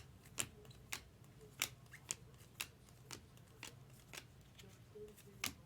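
Baseball trading cards being flipped through one by one, a short sharp card flick roughly every half second, the last one near the end the strongest.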